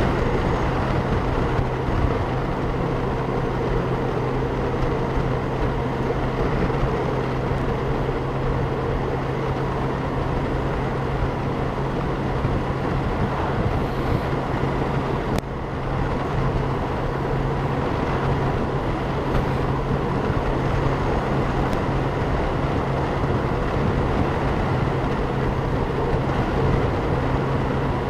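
Honda Gold Wing motorcycle cruising at a steady speed, heard from a helmet-mounted camera: constant wind rush and road noise over a steady engine hum. A single short click about halfway through.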